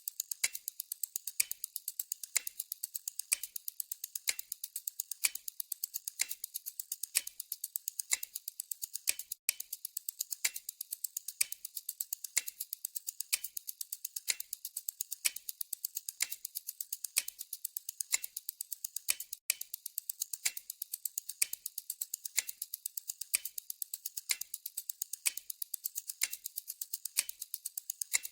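Clock tick-tock sound effect ticking steadily: a stronger tick about once a second with several lighter ticks between each, with a brief gap about every ten seconds where the loop restarts.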